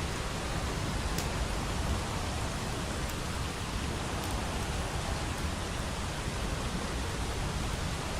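Steady rain noise, with a few faint crackles from a wood fire.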